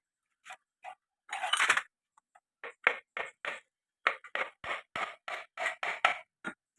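Short metallic knocks and clinks from a motorcycle engine being taken apart by hand, with a brief rattling scrape about a second and a half in, then the knocks coming quickly, about four or five a second, in the second half.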